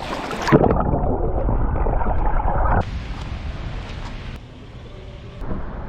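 A splash about half a second in, then muffled bubbling and churning of lake water as heard underwater, which changes suddenly near the middle to a quieter, open water noise.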